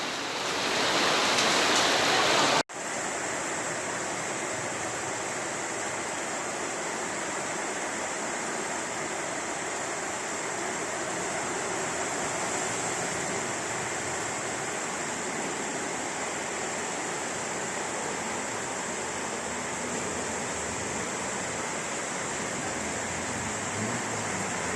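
Steady rushing of floodwater running through a street in heavy rain. The noise changes abruptly about two and a half seconds in, then stays even.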